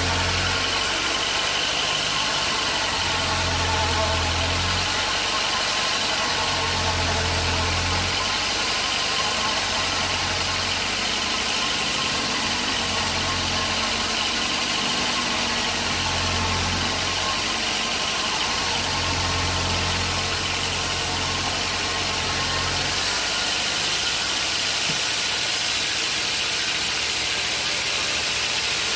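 Sawmill machinery running steadily, with a low hum that comes and goes about every three seconds and stops about three-quarters of the way through.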